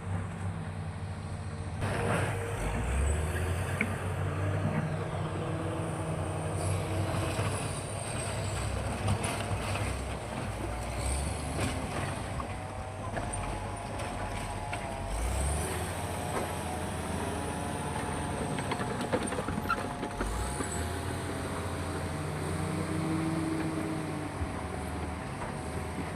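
Hitachi excavator at work: its diesel engine drones and rises and falls with the load, under a wavering hydraulic whine. High squeals and scattered knocks come from the machine and the bucket working.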